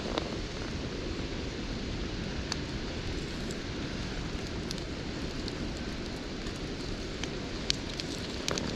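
Wood campfire burning with a steady low rumble and a few sharp crackles and pops now and then.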